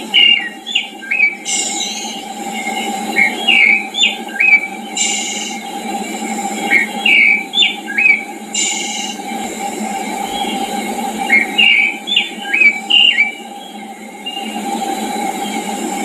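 A songbird sings a short phrase of quick, sliding notes, four times a few seconds apart. Under it runs a steady rushing background noise, and a few brief high hissing buzzes fall between the phrases.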